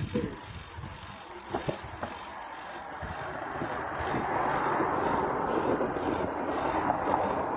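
Road noise of a bicycle ride: tyres on the street and air rushing past, with a few light clicks early on and the noise swelling louder from about four seconds in.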